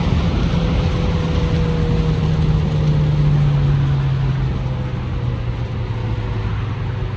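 2025 Ford Mustang EcoBoost's turbocharged 2.3-litre four-cylinder engine running on the move, its note falling slowly as the revs drop, over steady wind and road noise.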